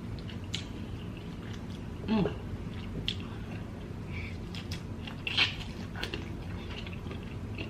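Close-mic eating sounds of someone chewing and biting into sauce-coated lobster tail: wet smacks and sharp little clicks scattered through, with a brief hum of a voice about two seconds in.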